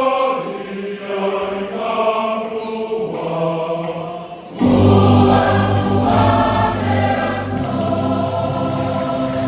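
A Samoan church choir singing a hymn in harmony. About halfway through the sound suddenly gets louder and fuller, with a steady deep bass coming in under the voices.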